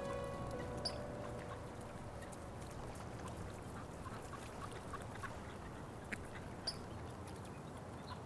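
Faint outdoor background with short, scattered bird calls. Music fades out in the first half second.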